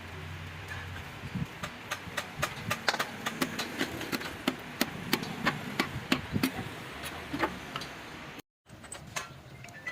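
Irregular sharp clicks and knocks of metal work on engine parts, several a second over a low steady hum, breaking off briefly near the end.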